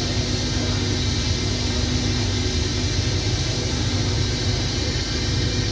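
Passenger train standing at the platform, idling with a steady low rumble and hum.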